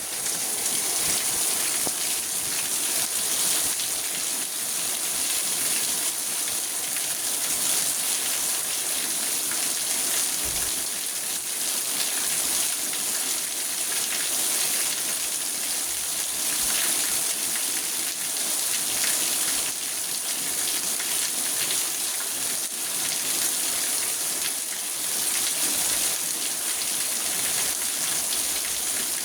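Steady rain falling on a car's roof and windows, heard from inside the cabin: a dense, even hiss of many fine drops.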